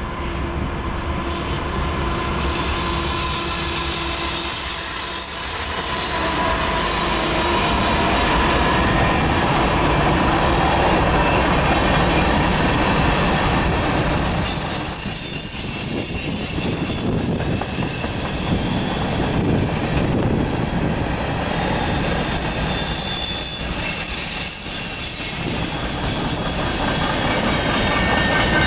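Norfolk Southern diesel freight locomotive coming in and passing, then a grain train of covered hopper cars rolling by: a steady, loud rumble of wheels on rail with a thin, high-pitched wheel squeal. The sound builds over the first few seconds as the train draws level.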